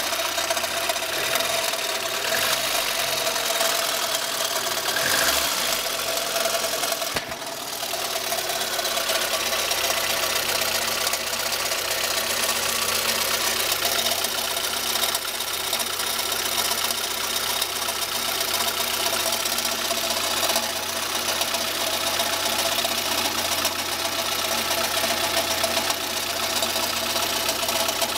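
Lada VAZ-21112's 1.6-litre eight-valve petrol engine running steadily with a rapid ticking, knocking rattle in its note. This is the strange engine noise the owner is asking about, cause unknown.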